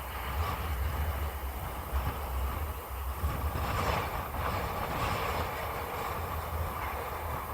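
Jet airliner engines, heard as a steady broad rushing noise that swells a little in the middle, over a low rumble.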